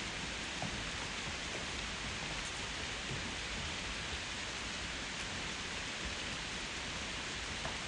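Steady rain falling, an even hiss with a few individual drops ticking now and then.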